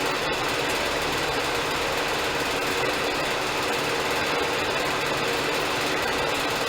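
Band sawmill running steadily, its engine and saw drive making a continuous mechanical drone, with a single short click just after the start.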